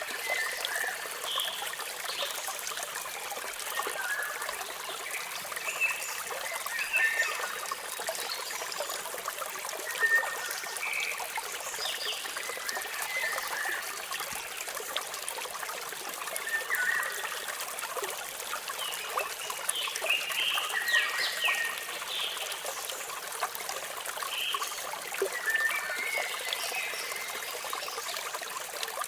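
Steady rushing of falling water, with birds chirping in short high calls at irregular intervals throughout.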